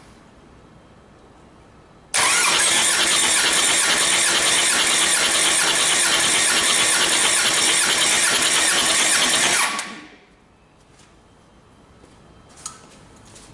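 Hyundai/Kia D4CB 2.5 CRDi diesel engine turning over out of the vehicle during a compression check. The loud, steady mechanical sound starts abruptly about two seconds in and stops about seven and a half seconds later.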